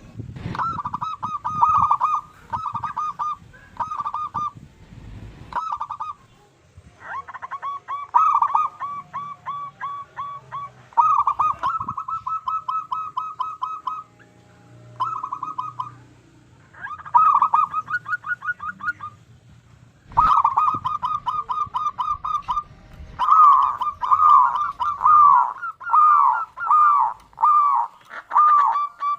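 Zebra dove (perkutut) cooing: several phrases of quick, short, repeated coos, broken by brief pauses.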